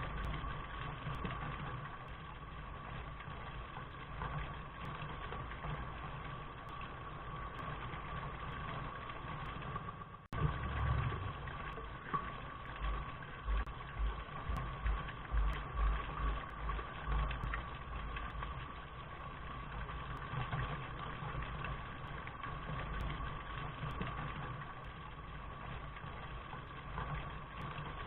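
Steady rain noise with a low rumble underneath. It cuts out sharply for a moment about ten seconds in, then a run of low thuds follows for several seconds.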